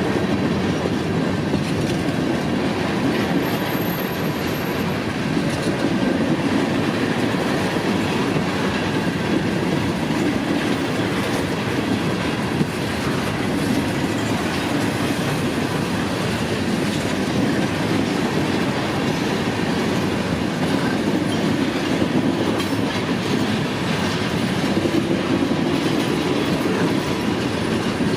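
Freight cars of a CSX manifest train rolling past with a steady rumble of wheels on rail.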